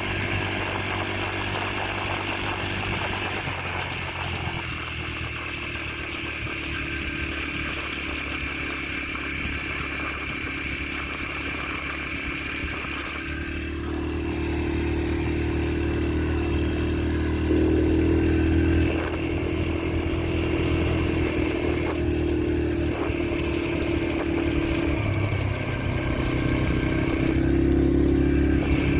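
Yamaha TT-R125LE dirt bike's single-cylinder four-stroke engine running under way as the bike is ridden. The engine note holds steady, then rises in pitch about halfway through and shifts up and down with the throttle after that.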